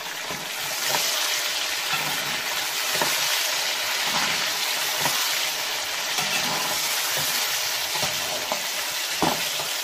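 Chicken pieces and tomatoes sizzling steadily in hot oil and masala in a metal pot, stirred with a metal spoon that clicks against the pot a few times.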